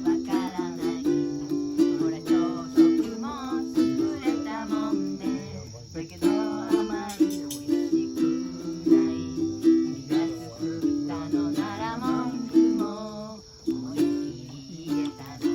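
Ukulele strummed in a steady rhythm of chords, with a voice singing a wavering melody over it.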